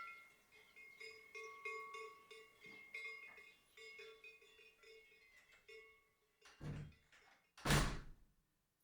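Soft plucked-string background music that fades out about six seconds in, followed by two dull thumps about a second apart, the second one louder.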